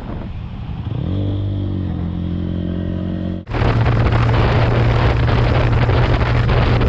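Motorcycle engine on the rider's own camera, rising in pitch as it accelerates and then holding steady. About three and a half seconds in the sound cuts abruptly to a louder, steady rush of wind and road noise over a low engine hum.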